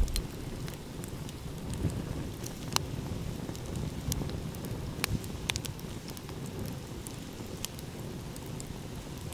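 Wood fire crackling, with scattered sharp pops among many small ticks, over a steady low rumble of ocean waves.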